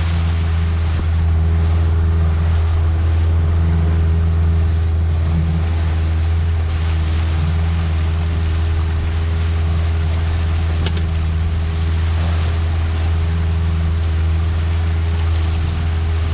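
Small fishing boat's engine running steadily at cruising speed while trolling, a constant low drone with the rush of water and wind over it.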